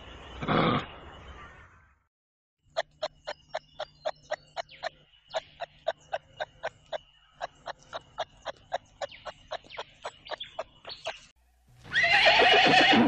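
A brief loud sound about half a second in. After that comes a long run of sharp, evenly spaced clicks, about three a second. A loud horse whinny closes the window.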